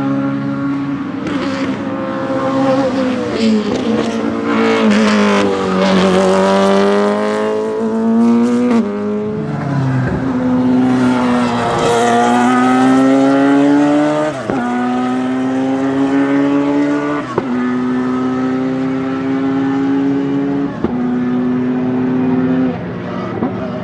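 Group CN sports-prototype race car engine, a Radical SR3 or Ligier JS51, running hard on track. Early on the pitch falls with crackles as it slows on downshifts. It then accelerates through a series of upshifts, each a sudden drop in pitch followed by a climb, about five gear changes in all.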